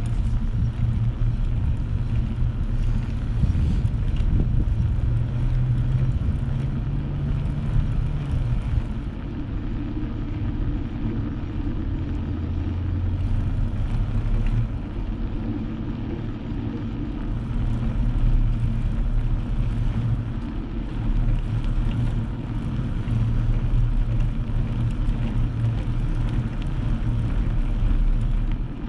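Wind buffeting the microphone on a moving bicycle: a steady low rumble that eases and swells a little.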